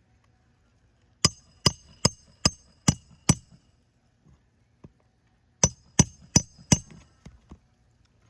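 Hammer striking metal in two runs: six blows about two and a half a second, a pause, then four more and a couple of light taps, each blow with a short metallic ring. The work is driving nails or a metal tool into roof shingles.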